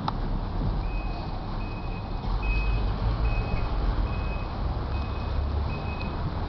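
A truck's reversing alarm beeping: a steady high beep that starts about a second in and repeats a little faster than once a second, over a low rumble.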